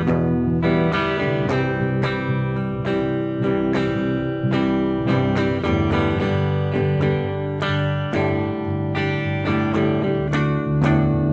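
Instrumental music: strummed guitar chords in a steady rhythm, without singing.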